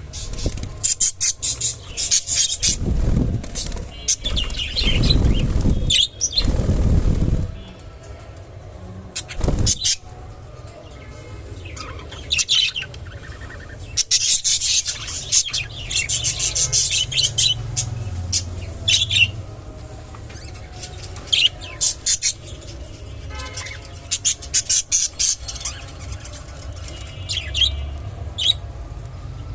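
Budgerigars chirping in short, rapid bursts and flapping their wings, with the heaviest flutters in the first several seconds.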